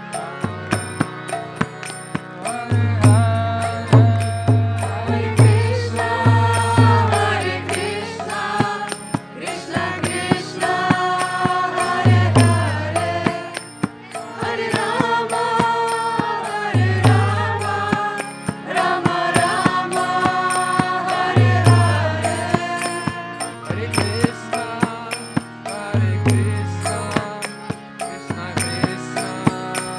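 Devotional kirtan: voices chanting a mantra to a melody, over a deep drum beating in repeated patterns and small hand cymbals keeping a steady beat.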